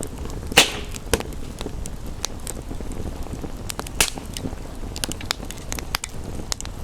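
Wood fire crackling with frequent small snaps and two loud pops, about half a second in and about four seconds in, over a steady rush of rain.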